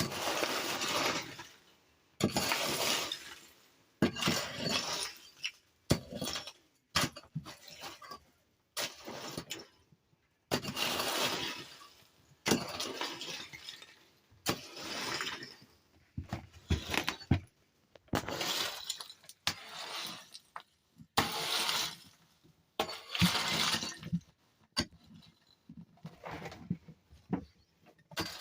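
A pick chopping into hard-packed, icy snow, with repeated crunching, breaking strokes about every one to two seconds.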